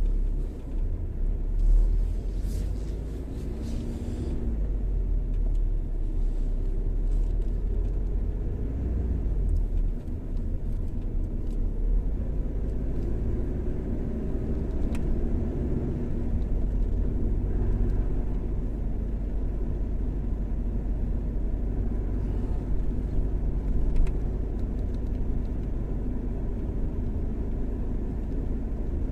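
Car driving along a highway: a steady low rumble of road and engine noise, with a few faint clicks in the first few seconds.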